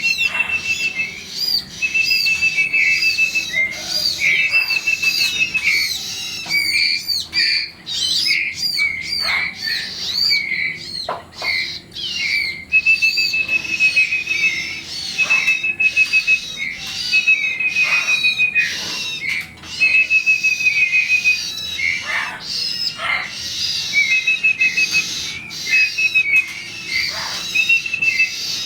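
Young prinias (ciblek) chirping, giving rapid high calls over and over, with a short even trill repeated every second or two.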